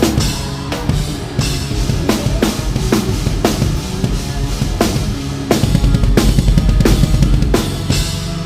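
A rock drum kit played live, close-miked: kick, snare and cymbal hits about twice a second, over the band's sustained bass and guitar.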